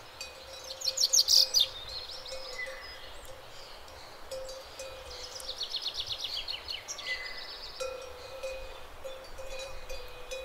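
Small songbirds singing in quick high trills of repeated notes. The loudest burst comes about a second in and another long run around the middle.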